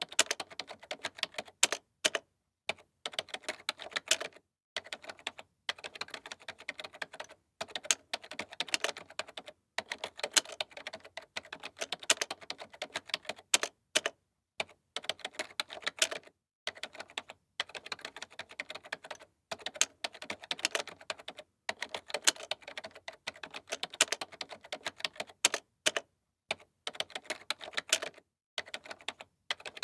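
Typing on a computer keyboard: quick runs of key clicks, each lasting a second or two, broken by short pauses.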